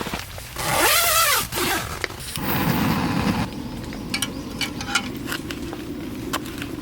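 A tent door zipper pulled open in one long stroke, its pitch rising and falling. It is followed by steady rain on the tent, with scattered drops ticking on the fabric.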